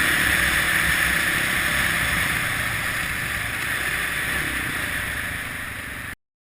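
Kawasaki KLX650R enduro motorcycle running on a trail ride, its single-cylinder engine rumbling low under heavy wind noise on the onboard microphone. The sound eases slightly and then cuts off suddenly near the end.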